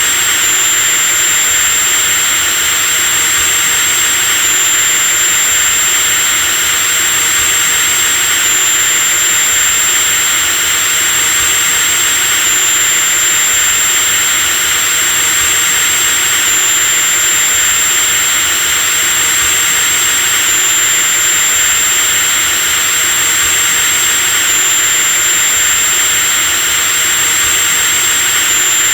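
Electric drilling machine running steadily at full speed: a high motor whine over a dense hiss, with a slight hitch in pitch about every four seconds.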